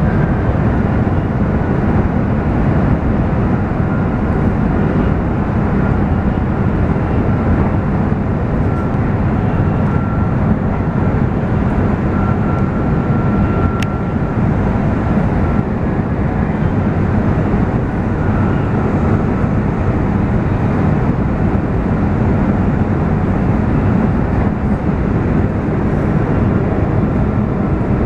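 Shinkansen bullet train cabin noise at high speed: a steady, loud rumble and rush of running gear and air. A faint high whine sits in it for a few seconds midway.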